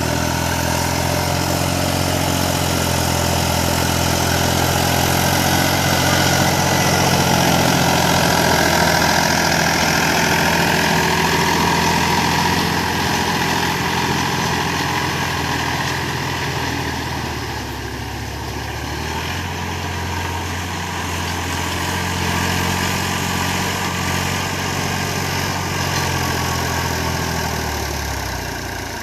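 Mahindra 295 DI Turbo tractor's diesel engine running steadily. It eases off about two-thirds of the way through, picks up again, and drops back near the end.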